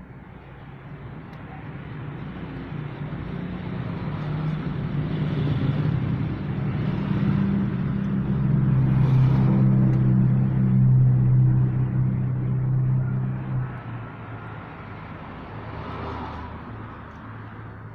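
A motor vehicle engine drawing closer, passing at its loudest about ten seconds in, then fading away.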